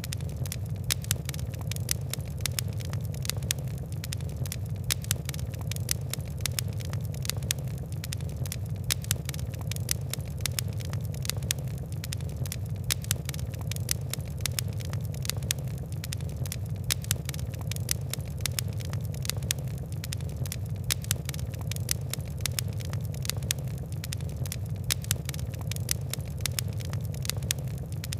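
Fire crackling: many small, sharp pops and ticks in quick irregular succession over a steady low rumble of burning.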